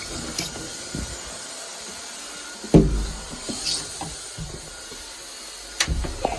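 Old bathroom extractor fan running with a steady hiss, with a couple of knocks, the loudest about three seconds in and another near the end.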